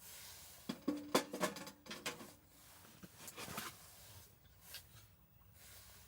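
Light knocks and clinks of small objects being handled: a quick cluster about a second in, some with a short metallic ring, then a few scattered softer clicks.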